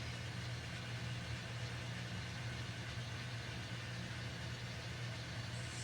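Sound-equipped N scale model diesel locomotives idling: a steady low engine hum.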